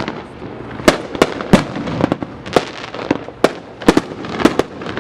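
Fireworks going off: a rapid, irregular string of sharp bangs and cracks, about a dozen in five seconds.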